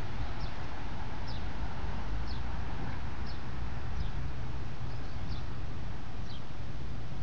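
Steady wind rumble on a phone microphone, with a short, high, falling chirp repeating about once a second.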